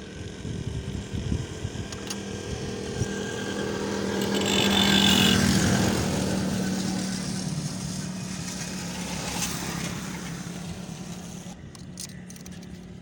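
Motor vehicle engine running, growing louder to a peak about five seconds in and then slowly fading.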